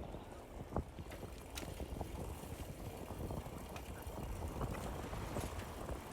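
Wind rumbling on the microphone during a bicycle ride, with scattered light ticks and a sharper click about a second in.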